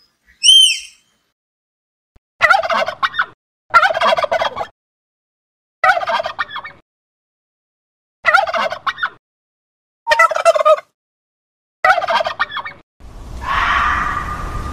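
Male turkey gobbling six times, each gobble a rapid rattling call about a second long, with pauses of one to two seconds between them. A brief high whistle comes just before the gobbles, and near the end a steady hiss takes over.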